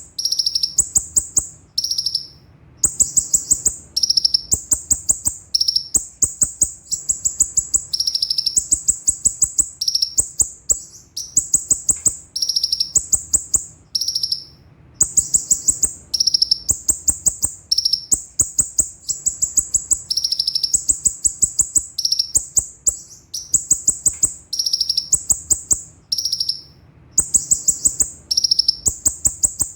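Kolibri ninja sunbird singing a rapid, high-pitched rattling trill in short repeated phrases that jump between a higher and a lower pitch, with brief pauses between bursts.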